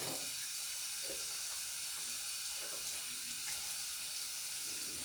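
Water running steadily from a tap into a sink as hands are washed, an even hiss.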